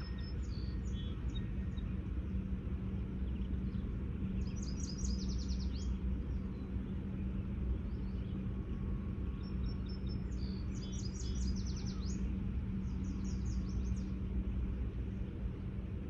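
Songbirds singing: several short trills of rapid high notes, each about a second long, over a steady low hum and rumble.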